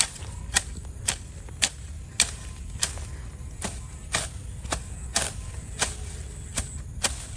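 Repeated chopping strikes of a hand tool, about two a second in a steady but slightly uneven rhythm, over a steady low rumble.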